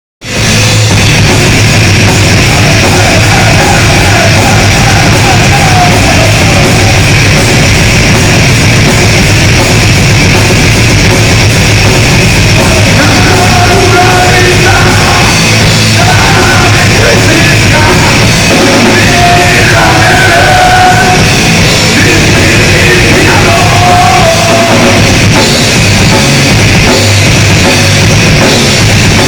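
Heavy metal band playing live: drums and distorted guitars, loud and continuous.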